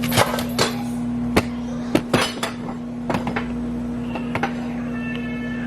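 Kitchen clatter: a string of sharp knocks and clinks of dishes, utensils and cupboard doors, busiest in the first three seconds, over a steady low hum.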